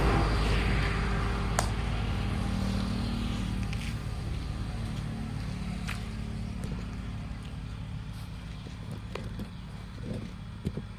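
A motor vehicle's engine running close by, then fading away steadily over several seconds as it moves off. A steady low hum lies underneath, with a few sharp clicks.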